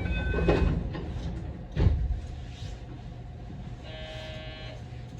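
JR West Osaka Loop Line commuter train running between stations, with a steady low rumble and a couple of heavy thumps from the track. A few short electronic tones sound near the start, and a short buzzing beep sounds about four seconds in.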